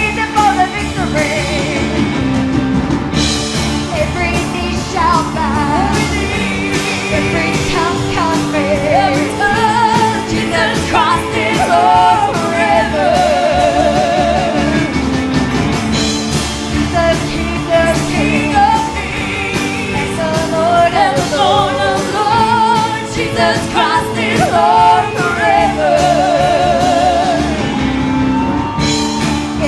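Live worship singing with a band: a lead voice with wide vibrato over sustained chords and a steady drum beat.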